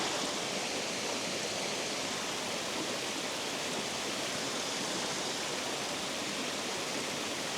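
Steady, unbroken rush of water pouring over a spillway.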